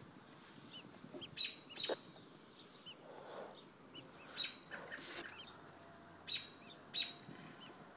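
Short, sharp bird calls, about six spread over several seconds, with fainter chirps between them.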